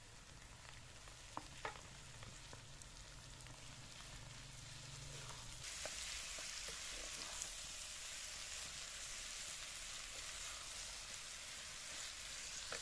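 Chicken and sliced onion sizzling in oil in a steel pan over a charcoal fire, with a wooden spatula stirring and scraping through them. The sizzle gets louder about halfway through.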